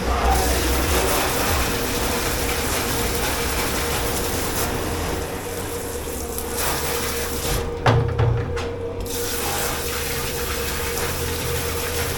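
Commercial dish pit at work: a steady machine hum under continuous rattling and clatter, with a little running water and a sharp knock about eight seconds in.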